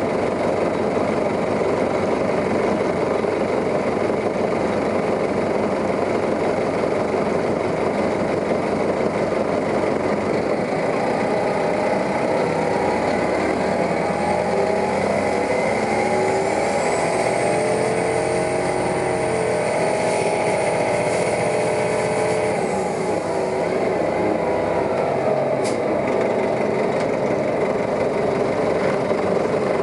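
Diesel engine of a New Flyer articulated city bus running, its pitch shifting through the middle as it picks up speed, with a thin high whine over it for several seconds. A single sharp click comes near the end.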